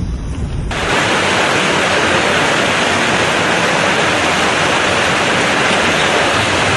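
Loud, steady rush of fast-flowing water, like floodwater or a torrent, starting abruptly about a second in after a short low rumble.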